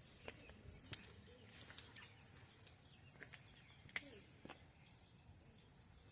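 Small birds chirping: a run of about five short, high chirps roughly a second apart, with a few sharp clicks in between.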